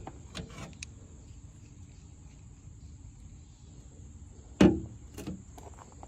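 A few light clicks, then a sharp knock about four and a half seconds in and a lighter one soon after, over a low steady hum.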